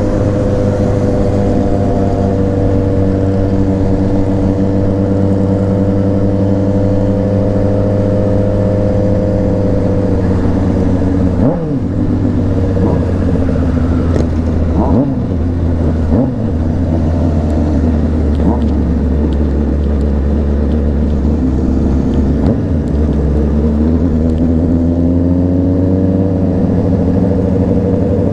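Honda CBR600RR inline-four engine heard on the move at a steady speed, with a few quick drops and rises in pitch around the middle as the rider shifts gears and changes throttle.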